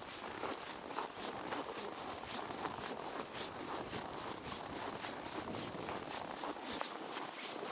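Footsteps crunching on snow, a steady walking rhythm of about three steps a second.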